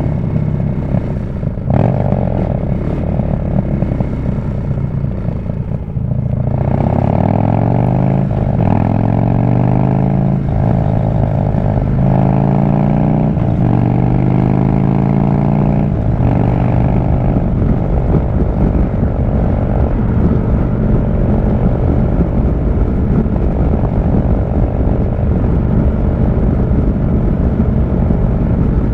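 Harley-Davidson V-twin motorcycle engine heard from the rider's seat, pulling harder about six seconds in. It accelerates up through several gears, its pitch climbing in each gear and dropping at each shift, then settles into a steady cruise for the second half.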